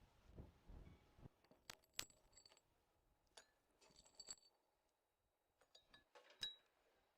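Kitchenware handled quietly: a soft rustle, then a string of light clinks and taps of glass or metal with a brief ring, the sharpest about two seconds in and near the end.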